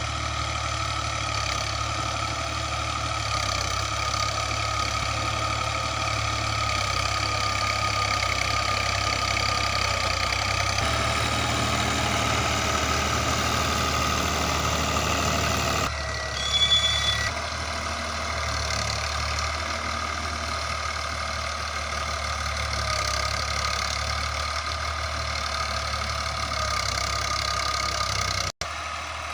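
Al-Ghazi tractor's diesel engine running steadily while pulling a chisel plough. About halfway through there is a brief high-pitched tone lasting about a second.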